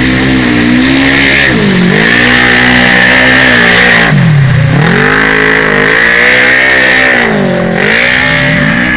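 Quad-bike (ATV) racing engines at high revs, the pitch dropping sharply and climbing back three times as the throttle is closed and reopened, over a steady high whine.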